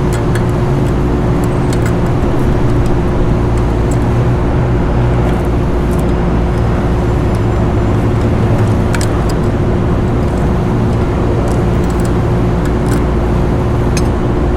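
Steady mechanical drone of rooftop HVAC equipment running, with a constant hum over a low rumble, and a few faint light clicks of handling.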